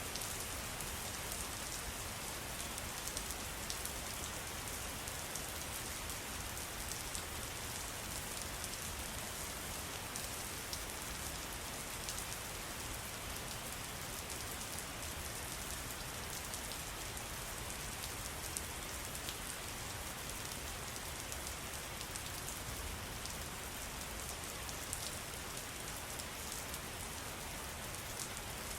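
Steady splashing of water with a fine patter of drops, even and unbroken.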